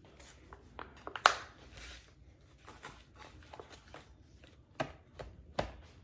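Plastic food packaging being handled: a series of clicks, taps and short rustles, with a sharp click about a second in and two firmer knocks near the end.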